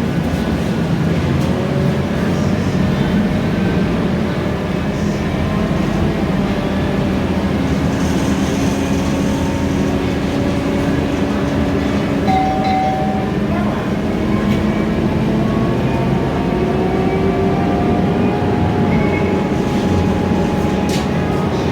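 Interior sound of a Scania K320iA CNG city bus on the move: the engine and drivetrain run steadily over road rumble, with whines that slowly rise and fall in pitch as the bus changes speed.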